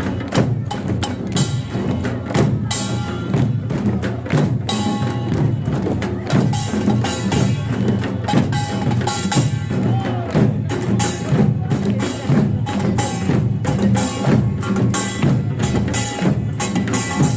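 Pungmul band (Korean farmers' percussion music) playing: small kkwaenggwari gongs clanging and janggu and buk drums beating a fast, dense rhythm, with jing gongs under them.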